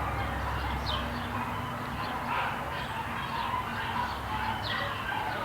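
A steady background of many dogs barking at a distance, overlapping, with a few quick bird chirps mixed in.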